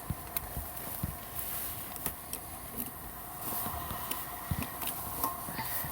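Scattered light clicks and taps from gear being handled during refuelling of a gasoline camp stove, over a steady faint background drone.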